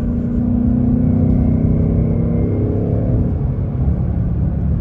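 2024 Ford Mustang GT's 5.0-litre Coyote V8 with active exhaust pulling under acceleration, its note rising steadily, then falling away about three seconds in, over a low rumble.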